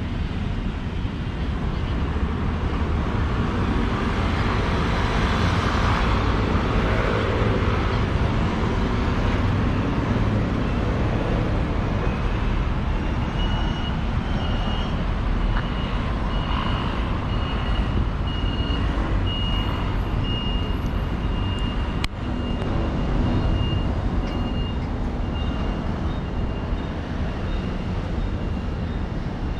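Street traffic noise with vehicles running past, one swelling louder and fading a few seconds in. From about halfway, a high electronic beep repeats steadily, and there is a single sharp click later on.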